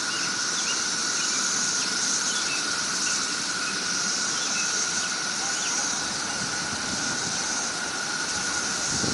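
Cicada chorus: a continuous high-pitched drone that swells and eases every second or so, over a steadier lower whine, with short faint chirps scattered through it.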